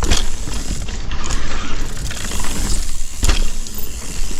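Mountain bike rolling over a dirt trail: the rear freehub ratchets while coasting, with knocks and rattles over bumps, the sharpest just after the start and about three seconds in, over a steady low rumble.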